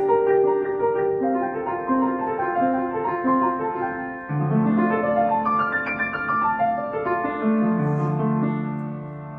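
Solo piano playing: repeated figures in the middle register, then deeper bass notes entering about four seconds in under a quick rising run of notes, with the sound fading near the end.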